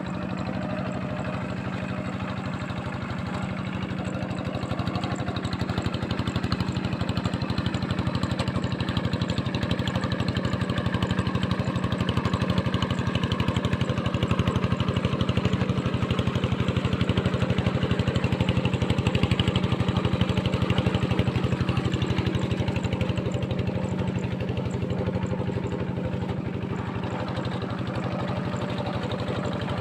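Diesel tractor engine running steadily while working a wet rice field. It grows louder through the middle and eases off again near the end.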